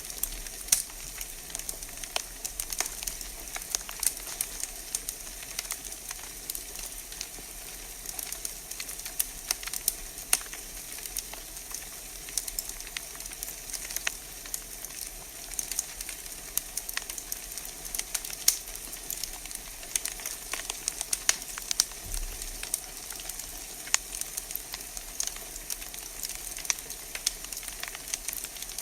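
Wood fire burning in a fireplace, crackling and popping with irregular sharp snaps several times a second over a steady hiss.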